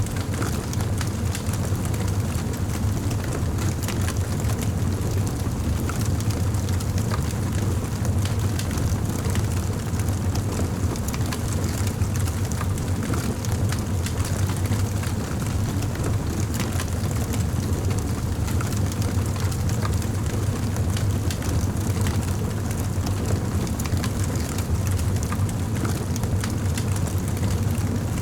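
Campfire burning: a steady low rumble with many small crackles and pops scattered through it.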